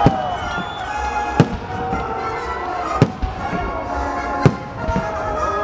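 Aerial firework shells bursting in a fireworks display, four sharp bangs about a second and a half apart.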